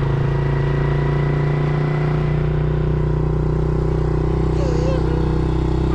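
Dirt bike engine running at a steady, even speed while being ridden, its pitch holding level.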